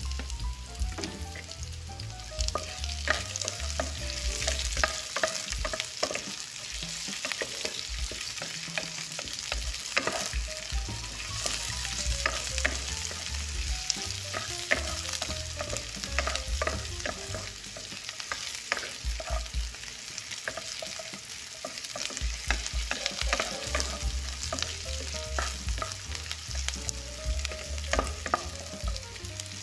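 Chopped onion sizzling in hot oil in a metal pot while being stirred, with a steady frying hiss and frequent clicks and scrapes of the utensil against the pot.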